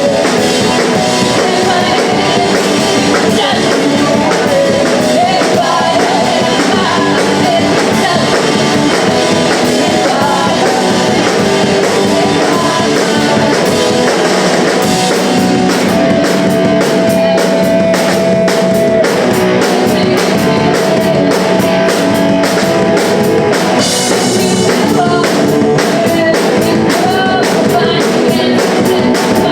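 Punk rock band playing live and loud, with guitar, drum kit and singing; a note is held for a few seconds past the middle.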